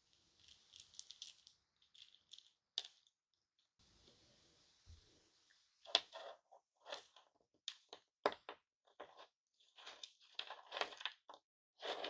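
Light crinkling, then a run of sharp clicks and cracks from hard-candy lollipop pieces, starting about six seconds in; a few of the cracks are loud.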